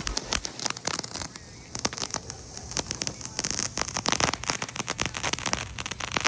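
A small firework crackling: rapid, irregular sharp pops over a high hiss.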